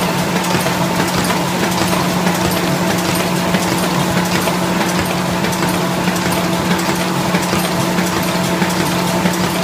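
Dingshung NIKKO Legato folder-gluer running steadily: a constant machine hum with a low drone and a few steady tones, over a faint rapid even ticking.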